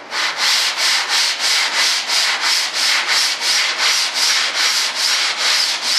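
Hand sanding of a model airplane's tail stabilizer: sandpaper scraping back and forth in steady, even strokes, about three a second.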